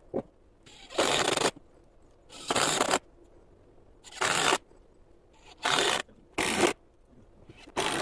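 Five or six short scraping strokes, each about half a second long, coming at uneven intervals.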